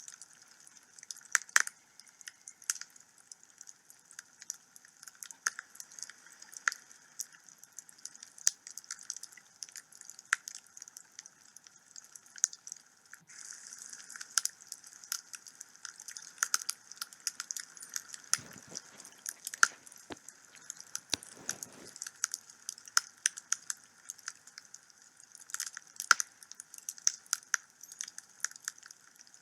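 Wood fire in a fireplace crackling, with many sharp, irregular pops over a steady soft hiss, and a brief low rush of flame about two-thirds of the way through.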